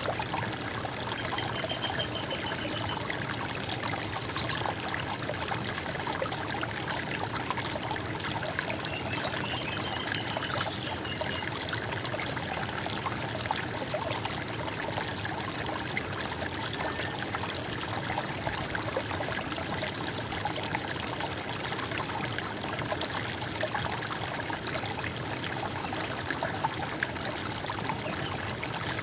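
Running water gurgling steadily, like a small stream. A bird's short rapid trill cuts through twice, once near the start and again about nine seconds in.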